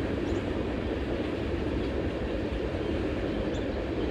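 A Canadian National (CN) train rolling past, a steady, even rumble of its cars going by.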